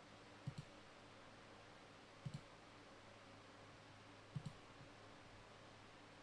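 Three short double clicks, each a quick pair, about two seconds apart, over a faint steady hum.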